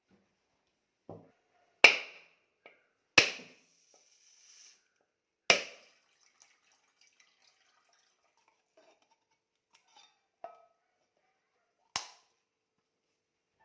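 Whole coconuts being cracked open with hard blows to the shell: four loud, sharp cracks, three in the first six seconds and one near the end, with a few lighter knocks between.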